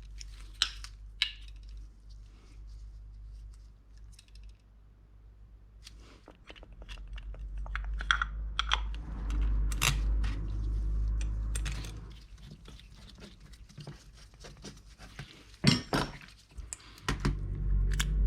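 Small metal parts clicking and clinking as they are handled and set down on a workbench, with a few louder knocks near the end, over a low steady hum.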